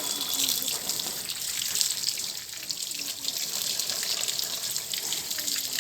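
Water running steadily from a tap, splashing.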